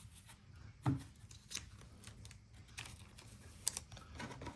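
2024 Donruss football trading cards being handled and flipped through: scattered soft clicks and slides of card stock, with a dull knock about a second in.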